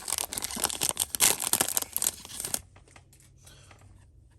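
Foil wrapper of a Yu-Gi-Oh booster pack crinkling and tearing for about two and a half seconds, then only faint rustles of cards being handled.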